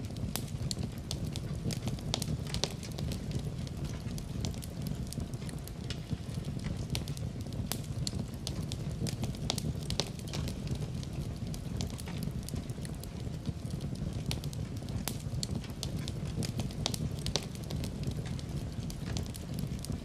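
Larch-wood fire burning with a low, steady rush and frequent, irregular sharp crackles and pops.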